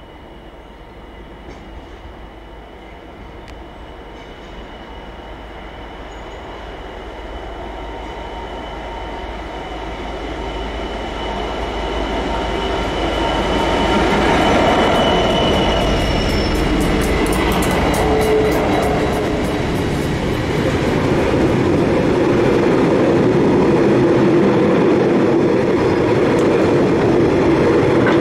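Heavy freight train hauled by two diesel locomotives approaching and passing close by, the engines growing steadily louder to a peak about halfway through, with a thin high wheel squeal from the curve. After the peak, loaded hopper wagons rumble and clatter past.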